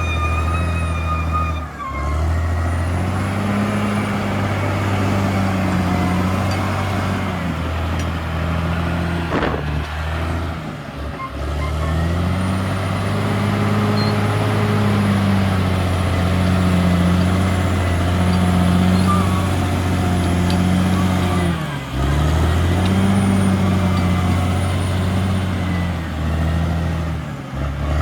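A CAT D6R XL bulldozer's diesel engine running hard, its pitch rising and falling as the revs change, with a few short breaks.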